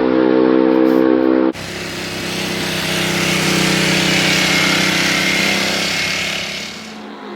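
Ducati Panigale V4 engine running at steady revs. About one and a half seconds in it cuts abruptly to a louder, rushing pass that swells and then fades near the end.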